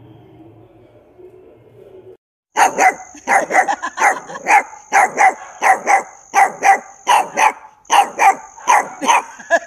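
Puppy barking rapidly and repeatedly, about three high-pitched barks a second, starting a couple of seconds in after a faint low sound. A steady high tone runs behind the barks.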